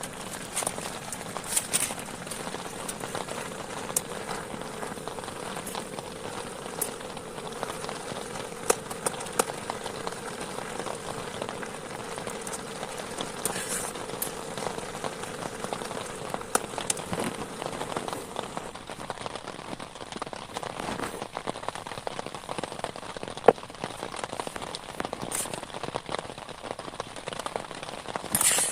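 Steady rain falling, with scattered sharp taps and clicks throughout and one louder tap about three-quarters of the way through.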